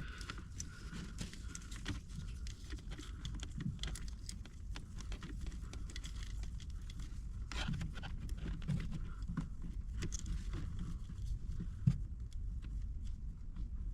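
Faint handling noises from wiring and connectors being worked under a car's dashboard: scattered small clicks and taps over a low steady rumble, with one sharper knock near the end.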